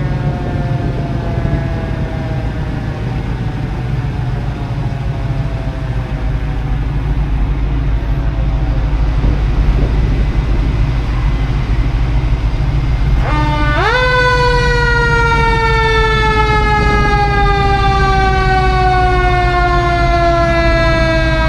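Mechanical siren slowly winding down in pitch, then spun up quickly about 13 seconds in and left to coast down slowly again, over a steady low engine and road rumble.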